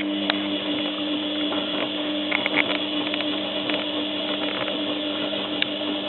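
Zanussi FLA1002W washing machine's motor turning the drum during the heated main wash: a steady hum with a sloshing, rushing noise that stops near the end.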